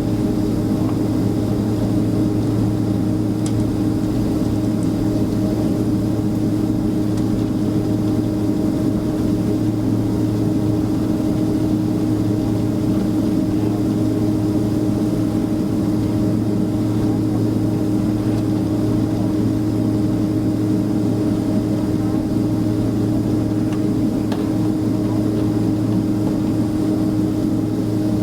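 Steady droning hum inside the cabin of a Boeing 767-300ER airliner before departure, with a low tone and a higher hum held constant throughout.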